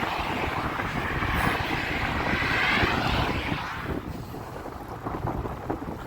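Strong wind buffeting the microphone on a moving bicycle, a rumbling rush, with a louder hissing rush that swells and then fades away about four seconds in.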